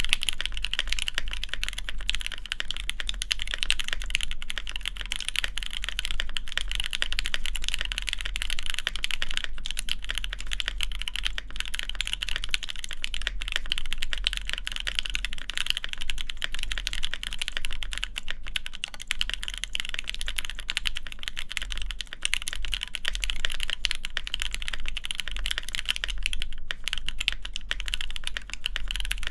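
Steady, fast typing on a DriftMechanics Austin mechanical keyboard with lubed Alpaca linear switches, an FR4 plate and GMK keycaps: a dense, unbroken stream of key clacks.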